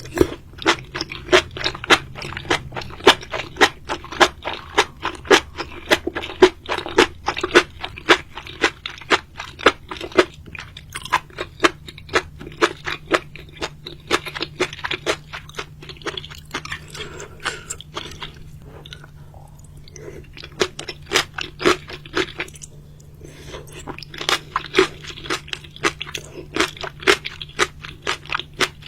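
Close-up chewing and crunching of seafood: rapid crisp crunches several a second, easing off for a couple of seconds about two-thirds through before picking up again, over a faint steady low hum.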